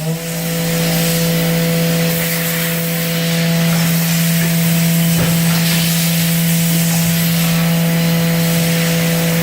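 Spindle of a Haas VF-2SS CNC vertical mill running at a constant high speed: a loud, steady whine with several overtones, levelling off from a rise in pitch right at the start.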